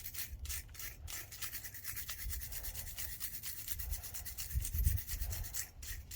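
Rapid hand scrubbing, several strokes a second, as the brake caliper bracket's pad guide tabs are cleaned of rust and old grease. A low bump is heard about five seconds in.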